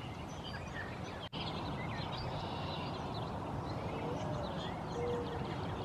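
Outdoor ambience: a steady background noise with faint, scattered songbird chirps, broken by a brief cut-out a little over a second in.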